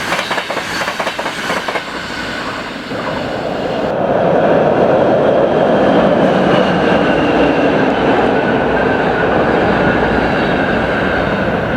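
Train passing through a station: rapid wheel clicks over the rail joints for the first few seconds, then a loud, steady rumble of the train running past.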